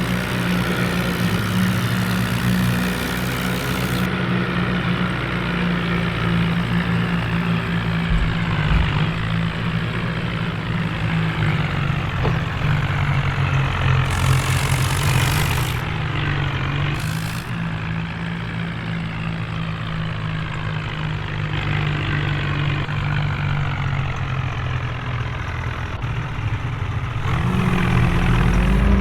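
Tractor diesel engines running with a steady low engine note, growing louder near the end.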